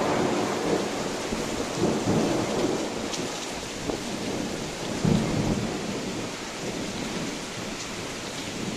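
Thunderstorm: steady rain, with a rumble of thunder dying away and swelling again briefly about two seconds and five seconds in.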